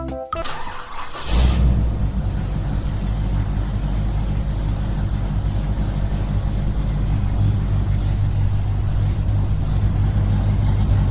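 Small engine of the mini tractor and water pump rig running steadily with a low, even drone. A rushing noise swells over about the first second and a half before it settles.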